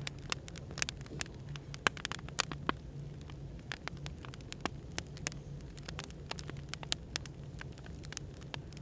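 Wood fire crackling, with frequent irregular sharp pops and snaps, over a steady low hum of background noise.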